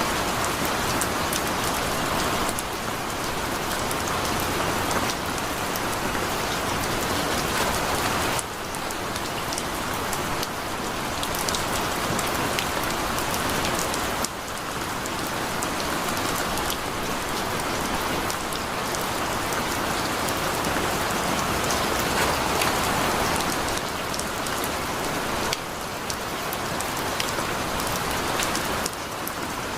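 Heavy rain pouring steadily, a dense even hiss dotted with sharp ticks of individual drops. Its level and tone shift abruptly a few times.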